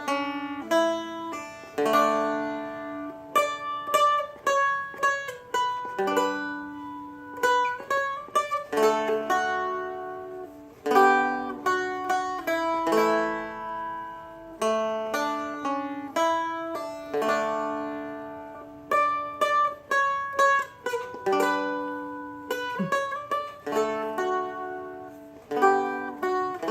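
Seagull Merlin M4, a four-string strumstick, played slowly: a melody of single picked notes that ring and fade, about one or two a second, with occasional full strums.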